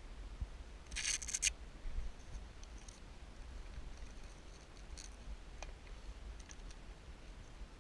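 A brief scratchy rustle about a second in, then a few faint ticks, over a steady low rumble.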